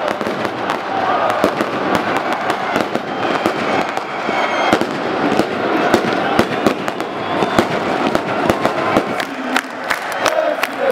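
Fireworks and firecrackers going off in a rapid, irregular string of sharp cracks and bangs, over a crowd's voices.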